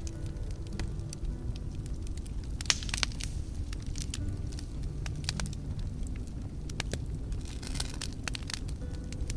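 Wood campfire crackling, with frequent sharp pops and snaps over a steady low rumble of the flames; the loudest pop comes about two and a half seconds in.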